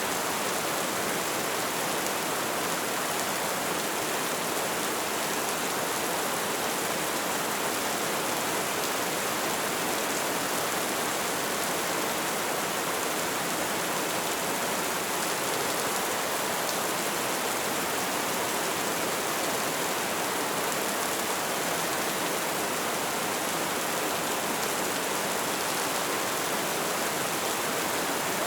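Light rain falling in a steady, even hiss, with no separate drops or changes.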